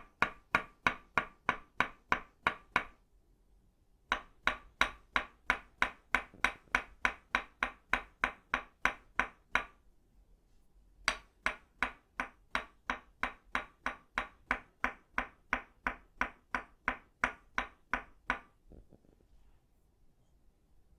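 Tok sen wooden mallet made of itaúba tapping a wooden stake: steady, evenly spaced knocks with a pitched, ringing tone, about three to four a second. They come in three runs separated by pauses of about a second and stop about three seconds before the end.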